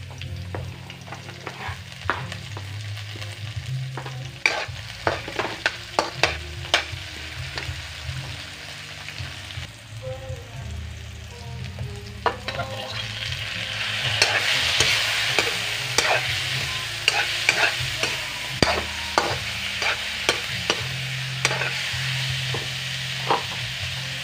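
Food frying in a metal wok, with repeated sharp clicks and scrapes of stirring against the pan. The sizzle grows louder about halfway through as a bowl of raw meat pieces is tipped into the hot oil.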